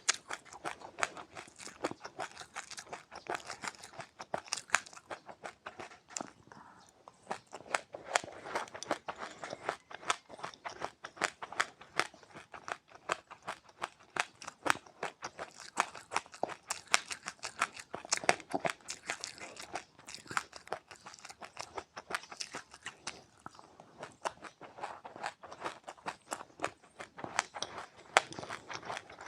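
A person chewing crunchy seeds: a dense, irregular run of sharp crunches and crackles, with a couple of short lulls.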